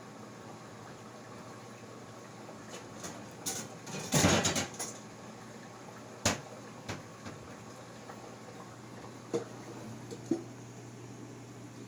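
Scattered knocks and light clatters over a steady low hum, with the loudest burst of clatter about four seconds in and single knocks later on.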